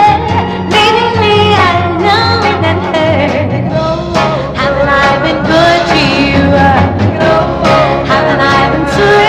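Female vocal group singing a Motown pop hit live, lead voice with backing vocals over a band with bass and drums.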